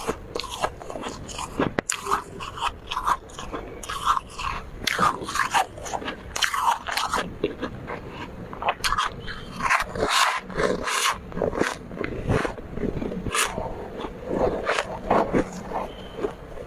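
Close-miked biting and chewing of soft, powdery freezer frost: a run of irregular crunches, each bite quickly squashed between the teeth.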